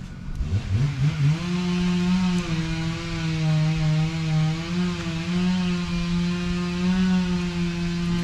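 Two-stroke chainsaw throttled up from idle to full revs about a second in, then held at a high, steady, slightly wavering pitch for several seconds.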